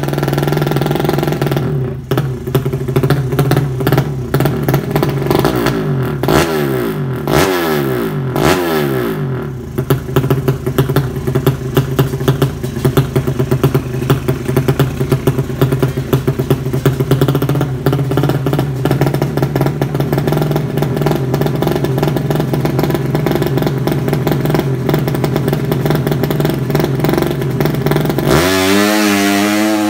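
Drag-racing motorcycle engine running fast and rough at a high idle, revved up and down a few times about six to nine seconds in and again near the end.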